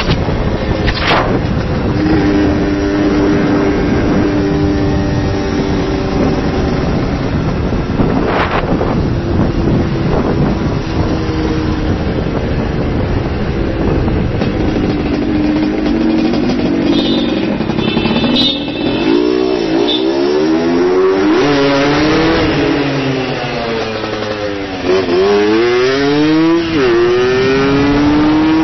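Yamaha RX135's single-cylinder two-stroke engine pulling hard on the road, heard from on the bike with wind rushing over the microphone. Its pitch holds fairly steady at first, then in the last third climbs and drops sharply several times as it is revved up through gear changes.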